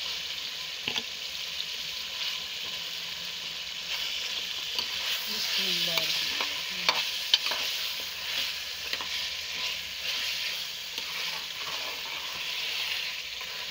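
Chicken masala with fried bitter gourd sizzling in a metal pot while being stirred with a metal spoon. The spoon scrapes the pot and clinks against it a few times, the loudest two about seven seconds in.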